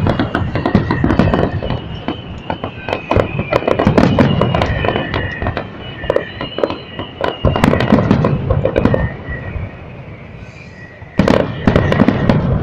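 Fireworks display: rapid bangs and crackling from bursting shells, with thin high whistling tones running beneath. The bangs ease off about ten seconds in, then a fresh volley of loud bangs follows.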